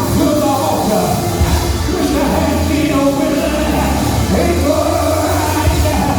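Live church music: sustained chords over a steady bass, with a voice singing.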